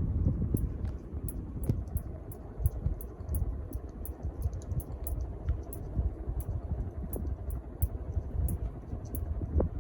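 Casablanca Columbia II ceiling fan running on its K-55 motor. The air from the blades buffets the microphone as an uneven low rumble, with faint high ticks several times a second.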